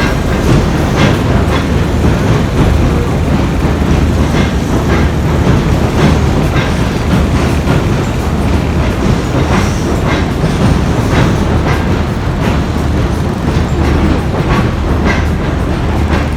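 Tobu Railway electric train running past, a steady loud rumble with wheels clattering over the rail joints.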